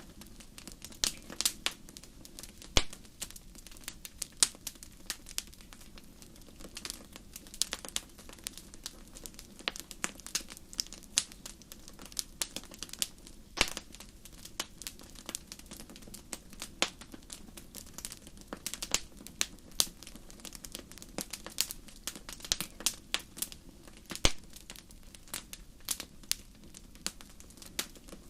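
Wood fire burning in a fireplace: irregular sharp crackles and pops from the burning logs, several a second and uneven in loudness, over a steady low noise from the flames.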